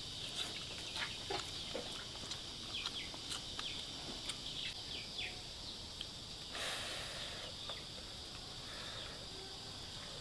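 Rural outdoor ambience: a steady high insect drone with many short, falling bird chirps in the first half, a few faint clicks, and a brief rustle about six and a half seconds in.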